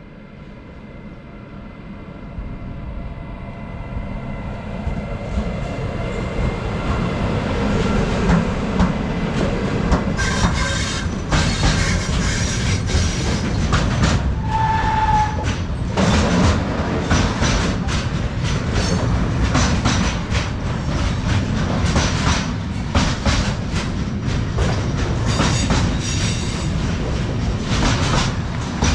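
Freight train approaching, growing louder over the first several seconds, then passing with steady wheel clatter over the rail joints. A brief high tone sounds about halfway through.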